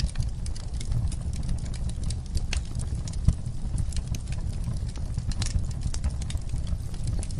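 Wood fire in a fireplace crackling: irregular sharp pops and snaps over a steady low rumble, with one louder pop a little past the middle.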